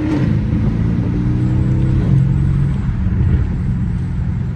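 Car engine running as the car is driven, heard from inside. Its note shifts about two seconds in.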